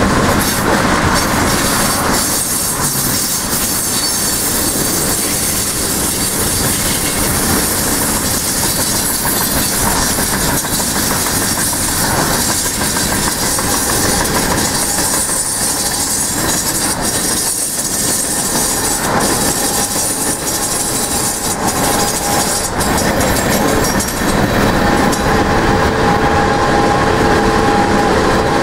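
Freight train's tank cars and covered hoppers rolling steadily along the rails, with a continuous rumble and the clickety-clack of wheels over rail joints. Near the end a steady squeal of wheels on the rail comes in over the rolling noise.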